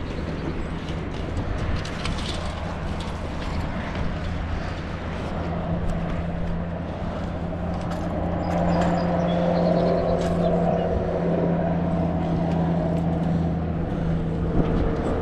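A motor engine running steadily: a low hum that grows louder and fuller about halfway through and stays steady.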